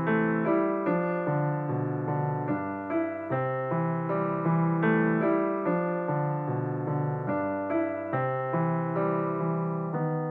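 Background music: a gentle piano or electric-piano melody, notes struck about two or three times a second, each fading after it is struck.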